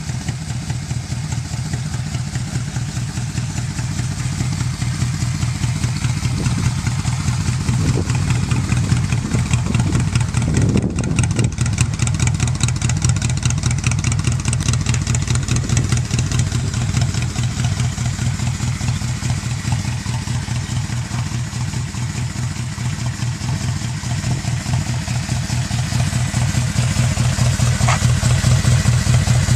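Cruiser motorcycle's air-cooled V engine idling with an even, pulsing beat. The engine note rises and falls briefly about ten seconds in.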